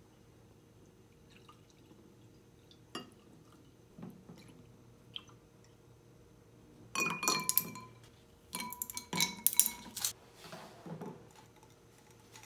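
A clear drinking glass being filled with coffee and soy milk: a few small knocks, then two clusters of ringing glass clinks, the first about seven seconds in and the second about nine seconds in, with soft pouring between.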